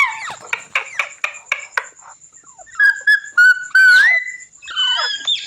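Green parrot calling: a falling squawk, then a quick run of short chirps, then whistled notes that glide upward in the middle, and more squawks near the end.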